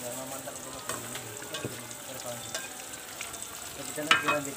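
Slices of yellow tempeh frying in hot oil in a wok, sizzling steadily, with a metal spatula now and then scraping and clicking against the wok as it turns them.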